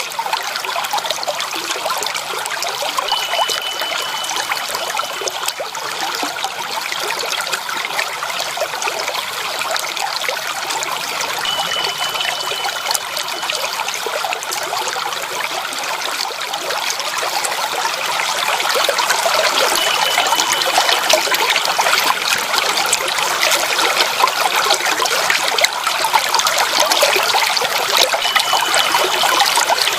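Water trickling and splashing steadily, a little louder from about two-thirds of the way through. A faint, thin high tone of about two seconds recurs four times at even spacing.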